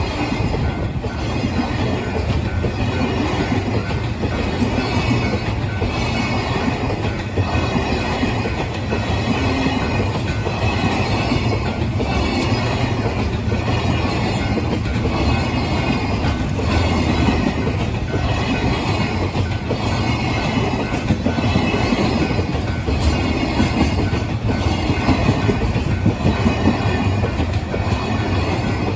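A long freight train rolling past, its wagons' wheels clattering over the rail joints in a regular rhythm, with some high wheel squeal mixed in.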